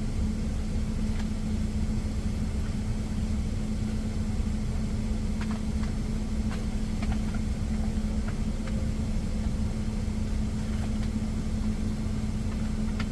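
A truck's engine idling with a steady low hum. A few faint clicks and taps from cutting and handling food come through over it.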